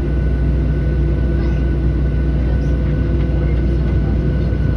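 Steady low rumble of a Boeing 737-700's CFM56 jet engines at idle, heard from inside the cabin on the ground before takeoff, with a faint steady high tone running over it.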